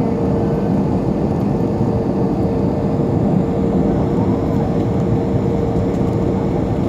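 Airliner engines running steadily: a loud, even rumble with a constant whine.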